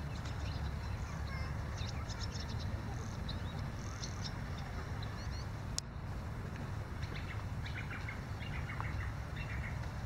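Small birds chirping and twittering in bursts of quick, high calls, over a steady low rumble. There is a brief click a little past halfway.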